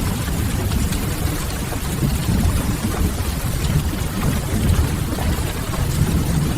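Ambience mix of steady rain on window glass and a wood fire crackling, over a constant low rumble.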